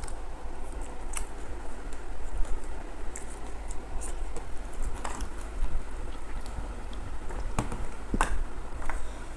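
Close-up eating sounds: chewing and mouth noises with a few sharp clicks, the loudest about eight seconds in, over a steady low hum.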